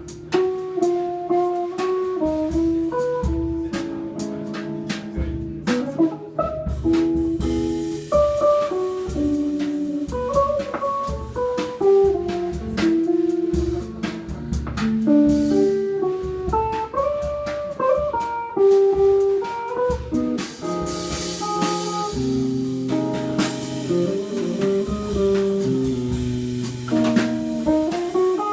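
Live jazz from a tenor saxophone, guitar and drums trio playing a slow tune: a stepping melody of held notes over guitar and drums, with cymbals coming in about a quarter of the way through and swelling past the middle.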